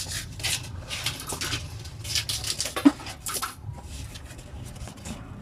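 Teak leaves rustling and crinkling in short scratchy strokes as they are handled and laid over the pot, with a single sharper knock about three seconds in.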